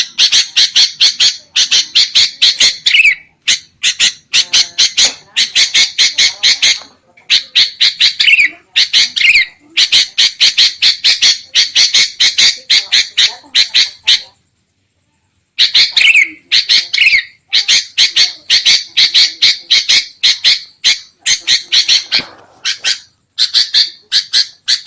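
Sooty-headed bulbuls giving agitated, harsh scolding calls in long, rapid chattering bouts of several notes a second, a lure recording used to draw wild bulbuls. The calling breaks off briefly about halfway through, then resumes.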